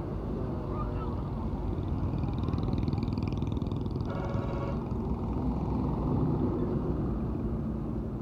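Steady engine and road rumble of traffic on a highway, with a short vehicle horn blast about four seconds in.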